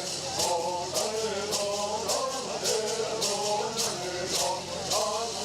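Bird Songs sung by a group of voices in a chanting melody. A shaken rattle, typically a gourd rattle, keeps an even beat about twice a second.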